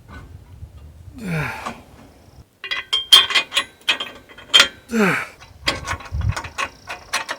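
Irregular metal clicks and clinks of hand tools and steel parts being worked during assembly of a bandsaw mill, with two short grunts.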